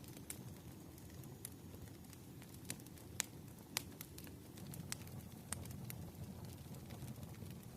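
Faint fire crackling, with a dozen or so sharp, irregular pops over a steady low rush of rain.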